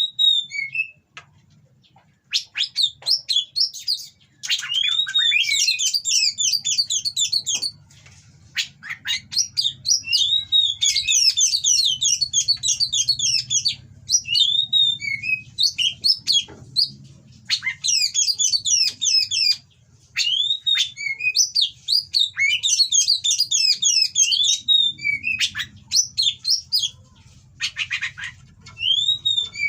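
Oriental magpie-robin singing in repeated loud phrases: each is a slurred whistle followed by a fast run of harsh, rattling notes, with short pauses between phrases. A faint low hum runs underneath.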